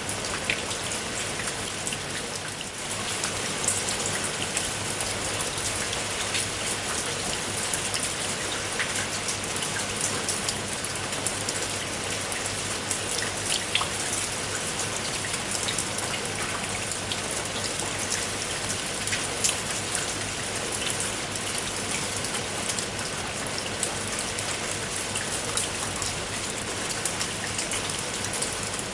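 Steady rain falling, a continuous hiss with many close raindrop ticks and the odd louder drop.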